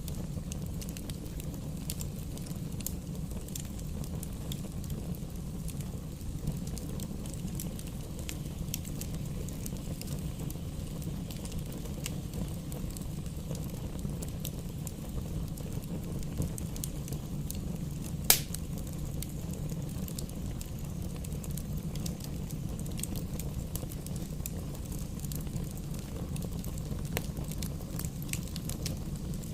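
Campfire burning with a steady low rumble and scattered wood crackles throughout. One sharp, much louder pop comes about 18 seconds in.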